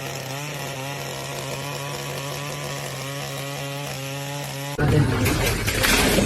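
A small motor running steadily with an even, pitched hum. About five seconds in it cuts abruptly to a louder, rough noise with irregular knocks and clatter.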